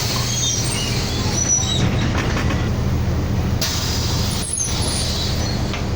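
City bus heard from inside, its engine running with a steady low hum. A hiss of air, typical of air brakes, sounds about three and a half seconds in, over a few brief high squeaks.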